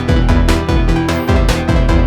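Electronic music played on Moog analog synthesizers and a Prophet Rev2: a steady pulse of percussive hits about four a second, short bass notes that drop in pitch, and held pad tones underneath.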